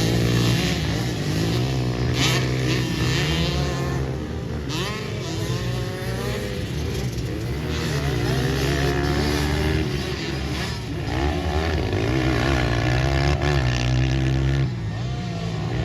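Pit bike engines racing, revving up and falling off again and again with the throttle and gear changes.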